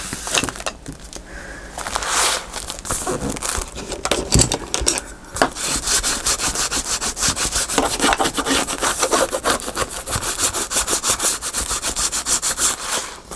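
Paper being rubbed down hard against a freshly glued hinge to press it flat: scattered rustling at first, then from about five seconds in a fast, even run of back-and-forth scraping strokes.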